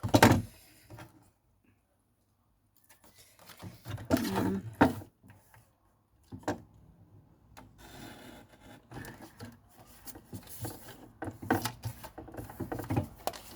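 A paper trimmer and card being handled on a craft table: a sharp knock right at the start as the trimmer is set down, then knocks, clicks and a rough rubbing and scraping of paper against the trimmer.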